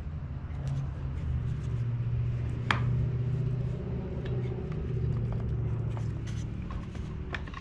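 Plastic blower housing parts and tools being handled during reassembly: scattered light clicks and one sharp click about three seconds in, over a steady low hum.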